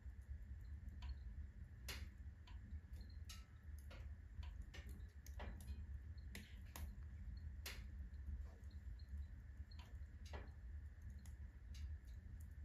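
Firewood burning in a wood stove, crackling with irregular sharp pops over a steady low hum.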